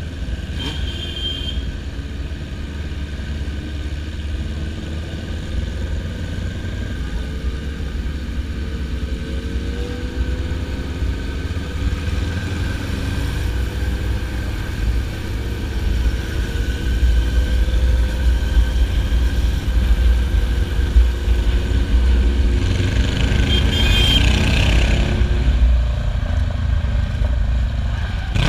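Motorcycle engine running on the road with a steady low rumble, its pitch drifting slowly up and down. It grows louder in the second half, with a short, harsher patch of engine noise near the end.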